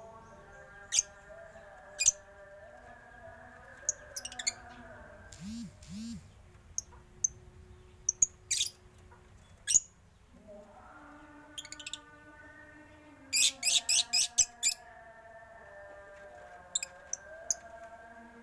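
Caged birds in a mixed aviary of starlings, zebra doves and lovebirds chirping: scattered short, shrill chirps, with a quick run of about eight chirps a little past the middle. A faint steady hum lies underneath.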